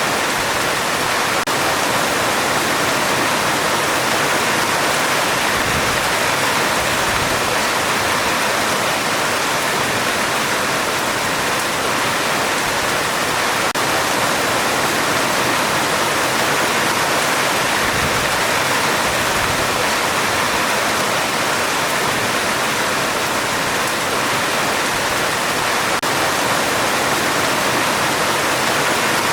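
Heavy rain pelting a metal roof: a dense, steady hiss that holds an even level throughout.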